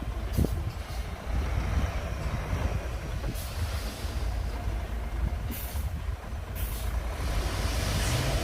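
Heavy diesel earthmoving machinery running with a steady deep rumble, with several short bursts of hiss over it.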